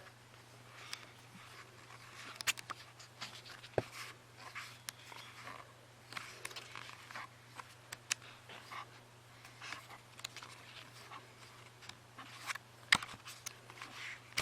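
Pages of a book being turned one after another: short, irregular paper rustles and flicks, with a sharper snap near the end, over a faint steady low hum.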